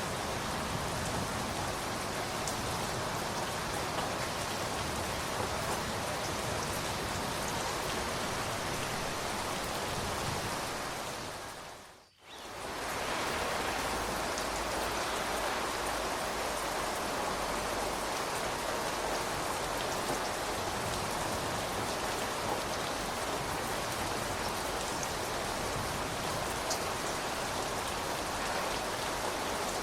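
Steady heavy rain falling on a surface, a dense even hiss with scattered tiny drop ticks. About twelve seconds in it fades out almost completely for a moment, then fades back in.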